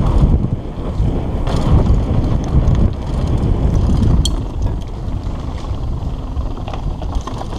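Heavy wind buffeting the microphone during a fast downhill mountain bike run, with the bike rattling over rough ground and a few sharp clicks.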